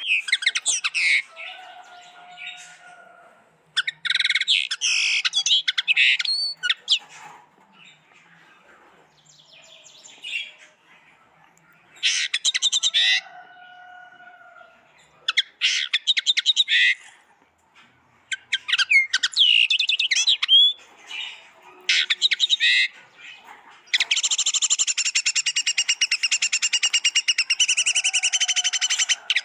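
Pet birds chirping and chattering in repeated bursts of rapid, high calls with short pauses between, then a longer unbroken run of fast trilled chatter near the end.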